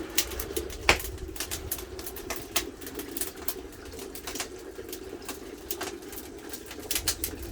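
Wood fire crackling under an iron cauldron: irregular sharp pops and snaps, the loudest just under a second in, over a steady low hum.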